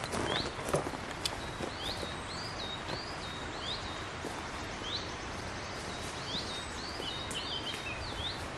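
A small bird calling repeatedly, about a dozen short high chirps that each flick up in pitch, over a steady outdoor background. A few rustles and knocks come in the first second or so.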